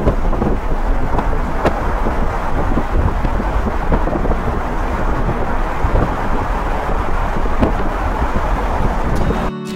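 Strong wind buffeting an outdoor microphone: a loud, steady rumble and hiss that cuts off suddenly near the end.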